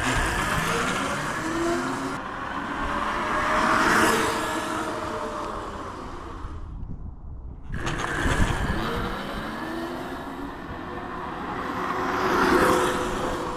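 E-Box Dragster electric mini bike accelerating past twice, its motor whining higher as it speeds up over tyre and wind noise. Each run grows louder to a peak and then fades, with a short break between the two.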